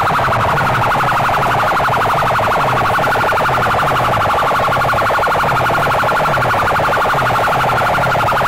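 DJ competition speaker boxes playing a siren-like track very loud and flat-out. A wailing alarm tone over a fast pulsing buzz, with a low sweep repeating over and over.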